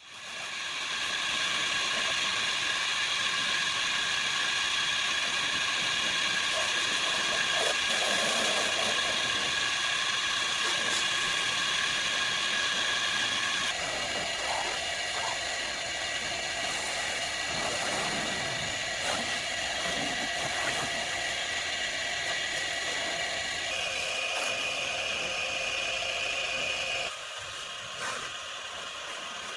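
A small motor runs steadily with a whine. Its pitch shifts in steps about halfway through and again later, and it drops in level near the end.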